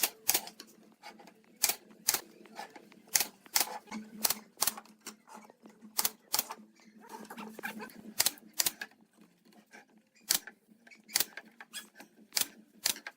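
Sharp knocks and clicks at uneven intervals, sometimes two or three close together, over a faint low hum.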